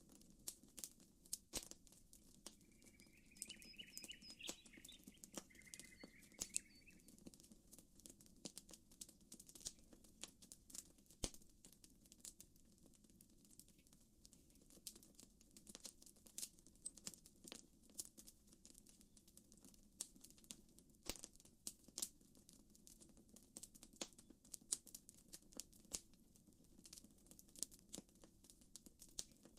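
Campfire crackling with frequent sharp pops and snaps, over a faint steady low murmur of water. From about three to seven seconds in, a bird gives a short twittering, trilled call.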